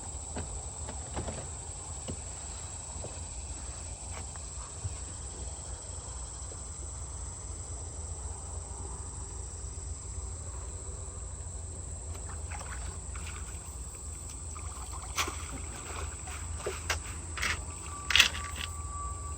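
Steady high-pitched insect chorus of crickets or cicadas over a low rumble, with scattered clicks and knocks in the last few seconds.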